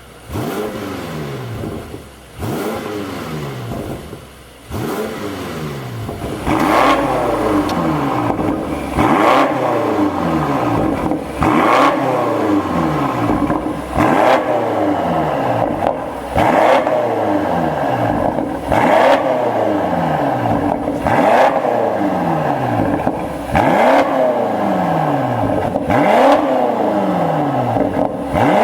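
BMW X5M (F95) twin-turbo 4.4-litre V8 being revved through an aftermarket valved performance exhaust: repeated throttle blips, about one every two and a half seconds, each a quick rise in pitch followed by a slow fall back toward idle. The exhaust gets louder and brighter from about six seconds in.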